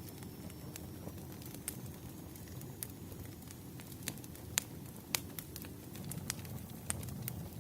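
Wood fire burning: a low steady rumble with sharp crackles and pops scattered throughout, the loudest about four and a half and five seconds in.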